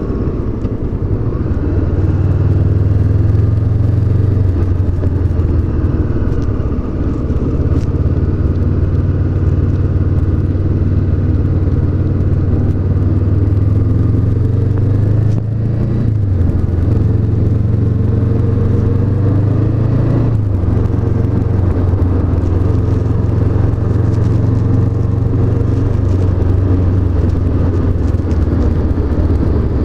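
Honda CB500X's 471 cc parallel-twin engine running steadily while the bike is ridden. The engine note dips briefly about halfway through and again a few seconds later.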